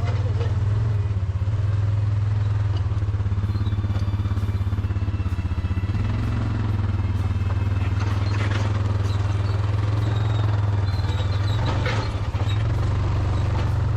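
Off-road vehicle engine running steadily, a low drone with a fast even pulse, with clattering knocks about eight and twelve seconds in as it rides over rough ground.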